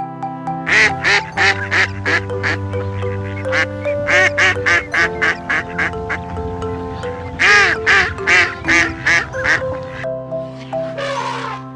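Ducks quacking in three quick runs of short, rapid quacks over steady background music.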